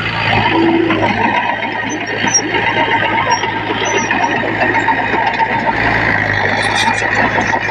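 Heavy diesel earthmoving machinery running steadily close by: a constant low engine hum with dense rattling noise over it.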